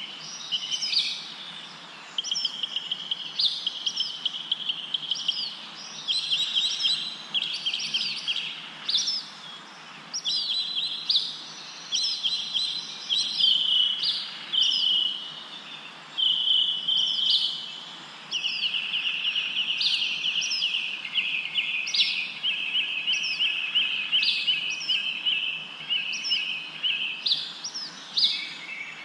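Several small songbirds chirping and trilling continuously: rapid chattering trills overlapping with short, sharp repeated chirps.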